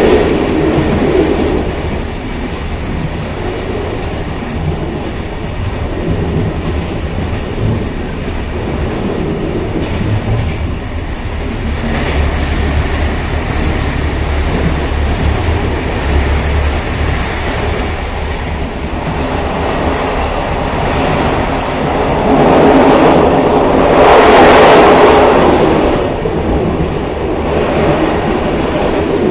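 Railcar running along the track with a steady rolling rumble. It swells louder and brighter for a few seconds near the end.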